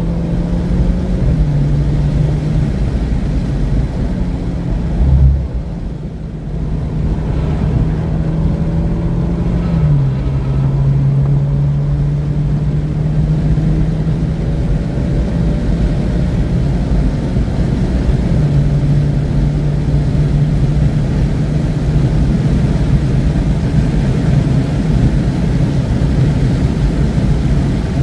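Alfa Romeo Giulia Ti Q4's turbocharged four-cylinder engine running at steady high revs on track through an aftermarket MAPerformance exhaust, with road and wind noise. The engine note steps down in pitch about a second in and again about ten seconds in, then steps back up about two-thirds of the way through. There is a brief loud thump about five seconds in.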